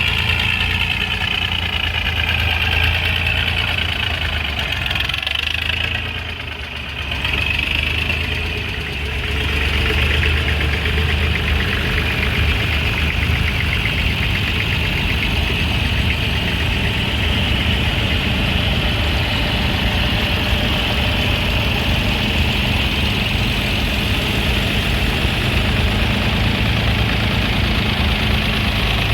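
Engine running steadily at idle, a continuous low drone with a higher whine on top; it dips briefly about six seconds in, then carries on.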